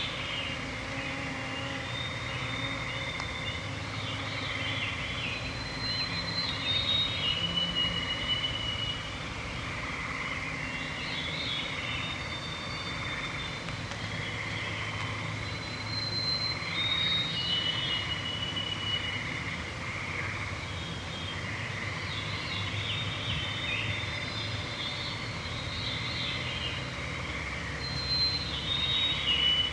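Evening chorus in northern boreal woods: songbirds repeat clear whistled and descending spiralling songs every few seconds, over a continuous high trilling of frogs and the hum of mosquitoes.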